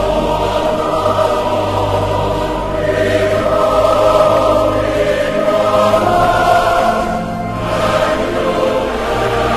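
Background music: a choir singing sustained notes over a steady low accompaniment.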